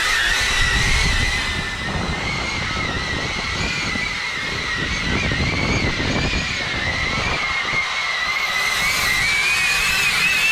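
Xpert Guard X8 caged drone's propellers whining in flight, the pitch wavering up and down as the motors change speed, over a low rumbling noise.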